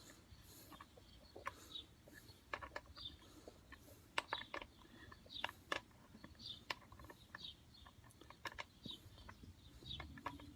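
Faint, irregular clicks and taps of hands working the screw and cover of a lawnmower's air filter housing, with short bird chirps in the background.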